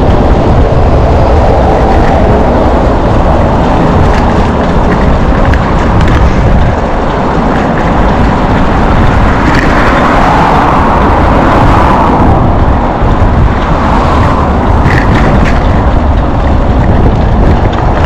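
Wind buffeting the microphone of a camera carried on a moving bicycle: a loud, steady rush of noise, heaviest in the low rumble.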